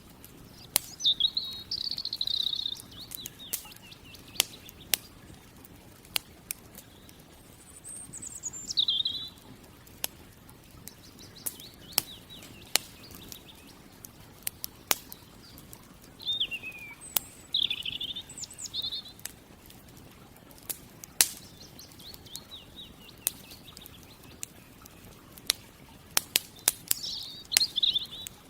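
Campfire crackling with frequent sharp pops, while a songbird sings short, high warbling phrases four times, several seconds apart.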